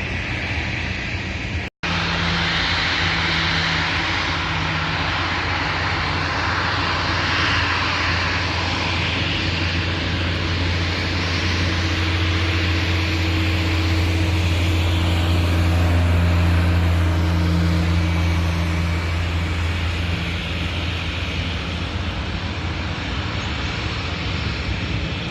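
Aircraft engines running as a plane passes. The sound grows a little louder toward the middle and then eases. The sound cuts out completely for a moment about two seconds in.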